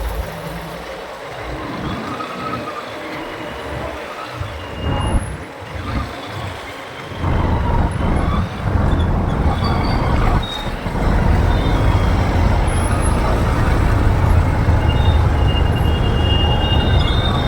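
Riding a motorbike through city traffic: steady road and engine noise with rumbling wind on the microphone, which grows much heavier about seven seconds in as the bike picks up speed. Short high tones from other vehicles' horns sound now and then, more of them near the end.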